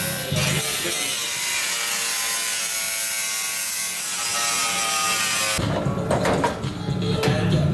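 Power tool cutting through car-body sheet metal with a steady high-pitched whine and hiss. It stops abruptly about two-thirds of the way through, followed by uneven knocks and clatter.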